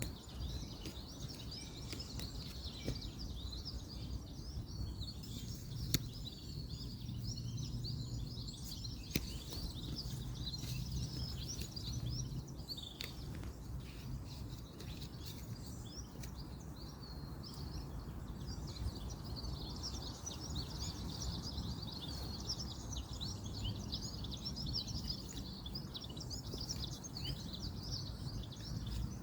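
Outdoor woodland ambience: many small birds chirping high and continuously over a steady low rumble of distant road traffic, with a few sharp clicks.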